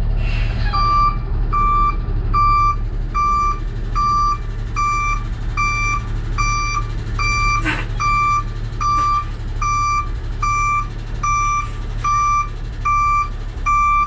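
Backup alarm on a piece of heavy equipment beeping steadily, about three beeps every two seconds, over the steady low running of its diesel engine, with one knock partway through.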